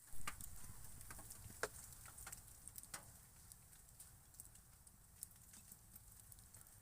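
Wood campfire crackling softly, with irregular faint pops and snaps over a low rumble.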